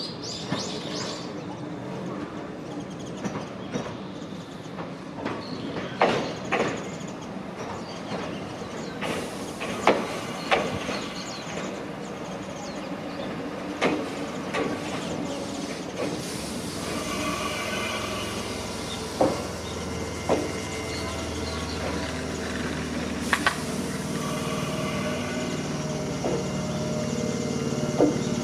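Mizuma Railway commuter train pulling into the station. Its wheels knock sharply over rail joints every few seconds against a steady rolling rumble. From about halfway through, a steady hum and whine build as the train slows to a stop alongside the platform.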